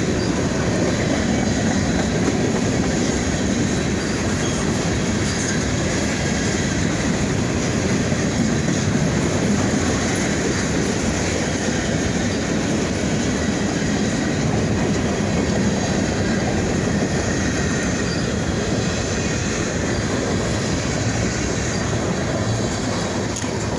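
Freight train rolling past on the rails: the steady, loud noise of its cars' wheels running over the track.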